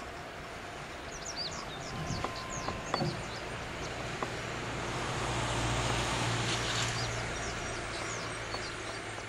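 Free Gauge Train, an electric gauge-convertible test train, running slowly into a station: a low steady hum and rolling wheel noise that swell as it draws close, loudest about six seconds in. Birds chirp and a few light clicks sound in the first few seconds.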